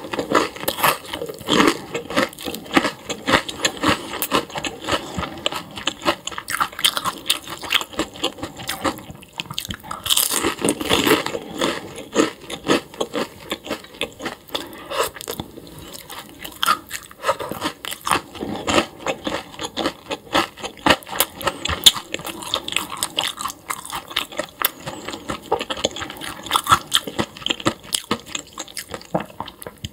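Close-miked chewing and crunching of food: a person eating, with a dense, irregular run of crisp crunches and clicks.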